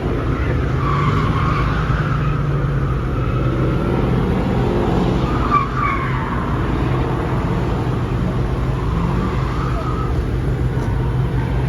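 Car engines running under a steady low rumble with tires squealing on pavement, a sharper squeal about six seconds in: cars spinning their wheels at a street car meet.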